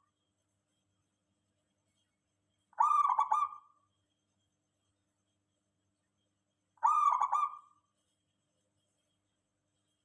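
A zebra dove (perkutut) cooing: two short coos about four seconds apart, each a quick run of notes lasting about a second.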